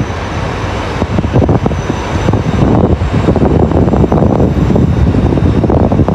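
A train running close by through the station: a loud, steady rumble with rattling, growing a little louder about halfway through.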